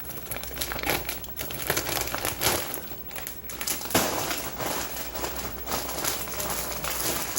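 Plastic-foil potato chip bag crinkling and rustling as it is handled, with irregular crackles throughout.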